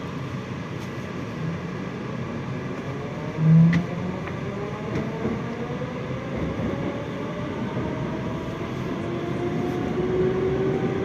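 Moscow metro 81-740.1 train accelerating, heard from inside the carriage: its traction motors whine in several tones that slowly rise in pitch over running noise. About three and a half seconds in there is one short, loud low tone.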